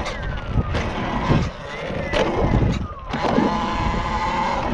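Electric motor of a Talaria Sting electric dirt bike whining as it rides over dirt jumps. The pitch falls early on as it coasts and holds steady later under throttle, with a few sharp knocks from the landings and a low rumble of wind and tyres on dirt.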